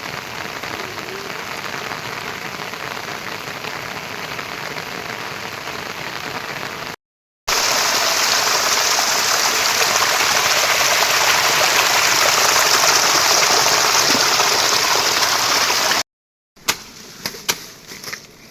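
Heavy rain pouring as a steady, dense hiss. It cuts out abruptly twice, and after the first break it is louder and brighter. Near the end the rain gives way to a quieter stretch with a few sharp knocks.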